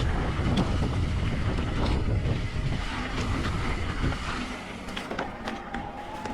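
Mountain bike rolling fast down a dirt trail: low wind and tyre rumble with scattered rattling knocks from the bike. The rumble eases a little past halfway, and a thin steady squeal sounds near the end.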